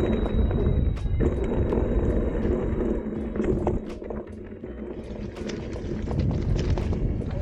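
Electric mountain bike ridden over a rough dirt trail: steady tyre rumble and wind on the microphone, with frequent clicks and rattles from the bike over bumps, easing for about a second around four seconds in.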